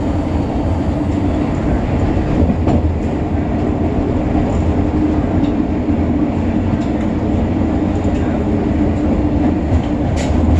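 Passenger train running at speed: a steady low rumble and hum of the wheels on the rails, with a few faint clicks over the track.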